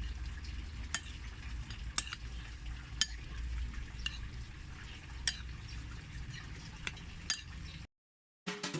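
Chicken and Szechwan pickle being stir-fried in a wok, the metal spatula clinking sharply against the pan about once a second over a low steady rumble. The sound cuts off near the end.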